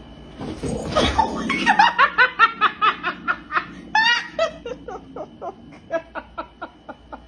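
High-pitched laughter: after a short breathy burst, a long run of quick "ha-ha" pulses, about four a second, loudest early and trailing off fainter and lower in pitch.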